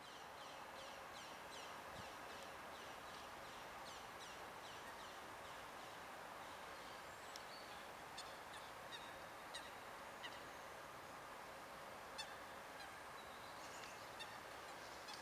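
Birds calling over a faint steady background hiss of outdoor ambience: a quick run of short, high, downward-sliding calls at about three a second near the start, then scattered single calls.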